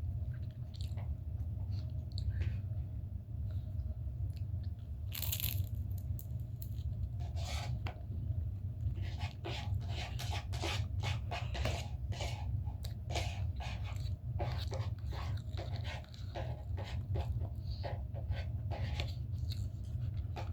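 Close-miked chewing and mouth sounds of someone eating egg: wet clicks and smacks, sparse at first and coming thick and fast through the second half, over a steady low hum.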